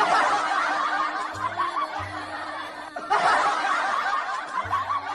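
A burst of laughter by several people, heard twice in a row with a short break about three seconds in, over background music.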